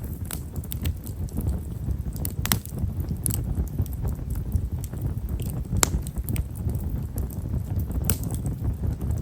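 A campfire of himeshara (Japanese stewartia) firewood burning with a low rush of flame and fine, rapid crackling. A few sharper snaps stand out, the loudest near the middle.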